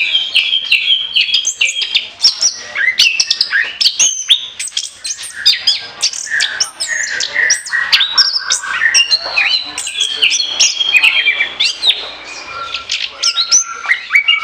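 Orange-headed thrush singing a long, rapid, varied song of quick whistled sweeps and trills, with hardly a break, in the full flowing 'ngoceh' style used as a lure recording.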